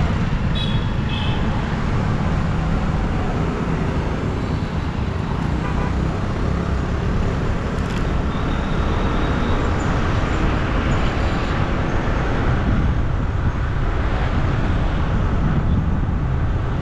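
Steady rush of wind across the microphone mixed with road and traffic noise, heard from a bike riding along a road.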